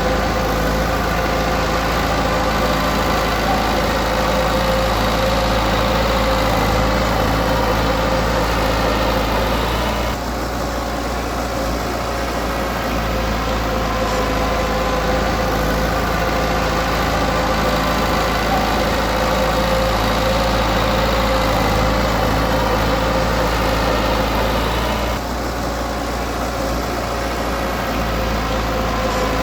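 Diesel engine of a Komatsu D20P bulldozer running steadily. It briefly drops in loudness and loses its upper tones twice, about ten seconds in and again near the end.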